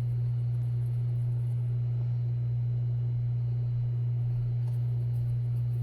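A steady low hum holding one pitch without change.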